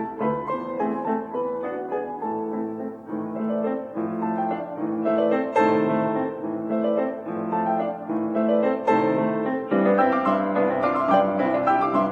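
Piano music in a classical style, melody over chords, growing fuller and a little louder near the end.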